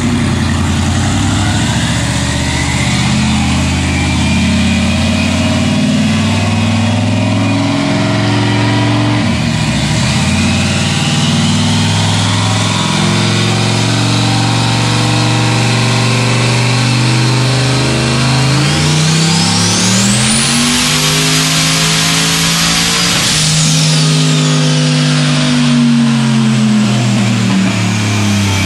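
Turbocharged Corvette V8 running on a chassis dyno. It drives through the lower gears, then about two-thirds of the way in goes to full throttle: the revs and a high turbo whine climb steeply, hold for a few seconds, then fall away as the throttle closes. It is the final power pull of a tune with one more degree of ignition timing, which made 1,019 horsepower.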